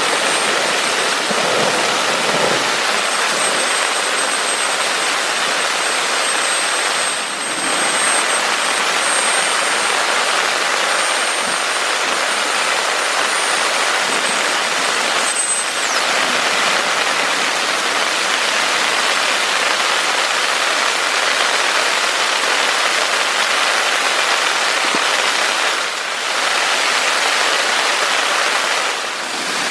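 Heavy rain falling hard and steadily as a dense hiss, dipping briefly a few times. A thin high whine sounds faintly above it for the first half and stops about sixteen seconds in.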